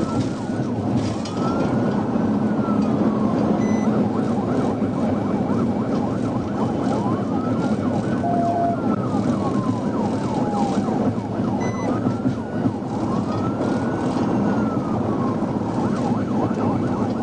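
Police car siren wailing, its pitch rising and falling slowly every few seconds, over heavy engine and road noise. A short beep sounds about eight seconds in.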